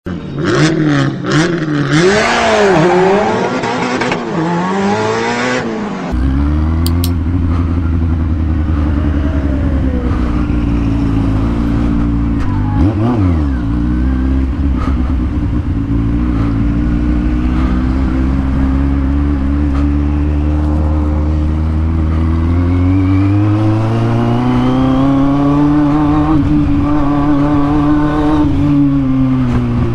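Kawasaki Z750 inline-four motorcycle engine with a bare straight-pipe exhaust. It is revved in quick blips for the first few seconds, then runs steadily under way, dips briefly and comes back, climbs in revs about three quarters of the way through, and eases off near the end.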